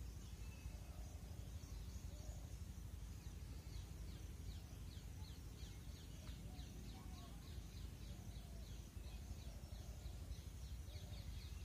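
Quiet outdoor ambience over a low, steady rumble. From about four seconds in, a small bird gives a rapid series of short, high, falling chirps, several a second.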